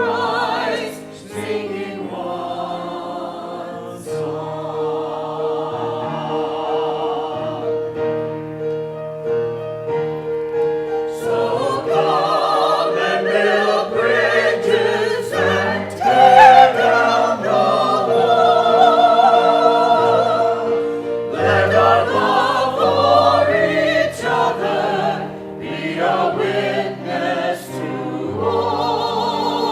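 A church choir singing a hymn with vibrato over a keyboard accompaniment of long held notes and a moving bass, swelling louder about twelve seconds in.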